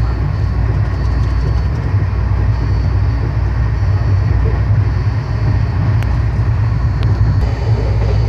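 LHB coach of the Rajdhani Express running at speed: a steady, heavy low rumble of the wheels on the track, heard from inside the coach.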